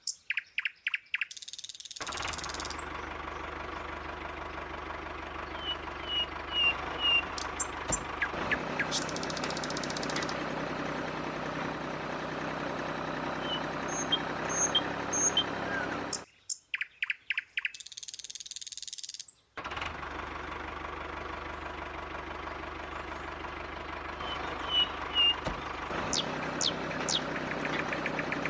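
A small motor running steadily with a low hum. It stops for about three seconds around the middle, with only a few clicks in the gap, then runs again. Short high bird-like chirps come over it in small groups several times.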